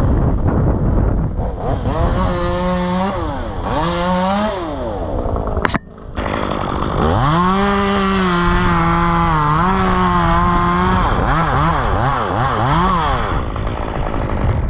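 Chainsaw revving, with two short revs at first and a sharp break a little before six seconds. It then holds a long steady high-speed run from about seven to eleven seconds, followed by several quick rev blips.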